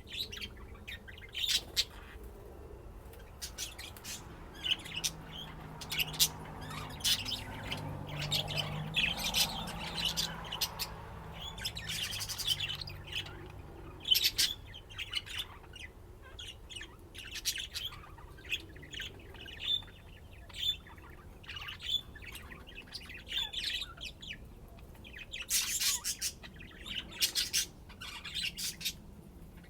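Pet budgerigars chirping and chattering in quick, continual bursts of short chirps with an occasional squawk, busiest in two stretches: from about 4 to 14 seconds in and again near the end.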